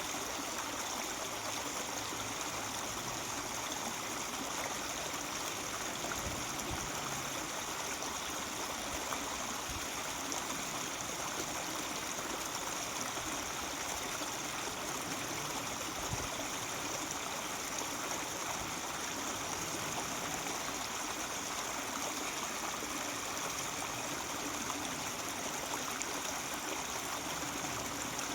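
Mountain stream babbling over rocks, a steady, even rush of running water.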